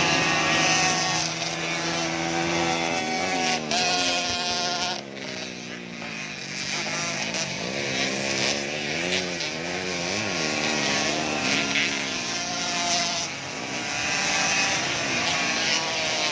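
Motocross bike engines racing: their pitch repeatedly climbs and drops as the riders open the throttle and shift, with several bikes overlapping.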